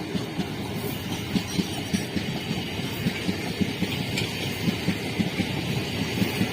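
A train's wheels running over the rail joints: a steady clickety-clack of sharp knocks, about three a second, over a low rumble.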